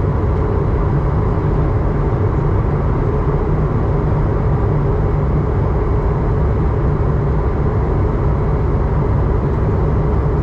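Steady cabin noise of an Airbus A220-100 airliner in flight: the constant low rush of engines and airflow, heaviest in the bass, with a faint steady hum in the mid range and no change throughout.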